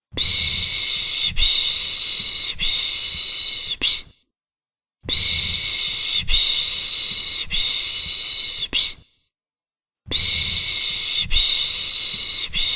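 A person's rhythmic 'piş piş' shushing for soothing a baby: steady hissing 'shh' sounds, each stretch pulsing about four times over about four seconds, with a short silent breath between stretches, three stretches in all.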